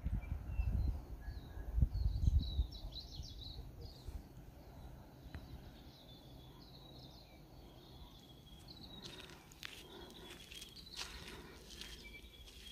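Birds calling with short, high chirps and whistles, scattered through the stretch. A low rumble of wind on the microphone comes in the first couple of seconds.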